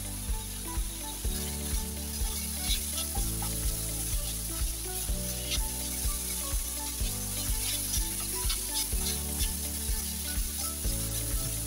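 Thinly sliced pork sizzling in a wok as it is stir-fried and turned with a spatula, under background music with a steady beat about twice a second.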